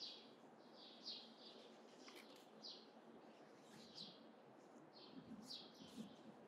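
A small bird chirping over and over, short high chirps every half second or so, faint against quiet outdoor background hiss.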